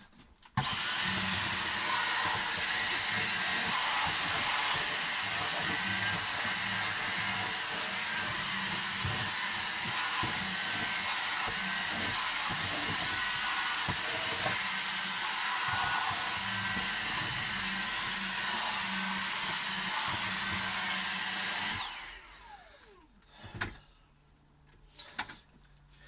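Electric power drill running steadily with a high motor whine, starting about half a second in and cutting off after about 21 seconds.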